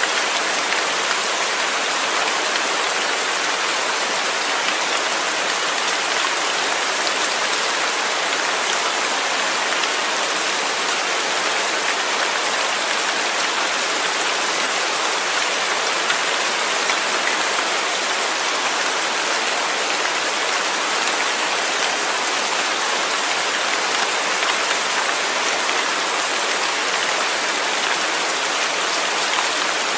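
Steady rain falling, a dense even hiss of many drops with no thunder or other sounds.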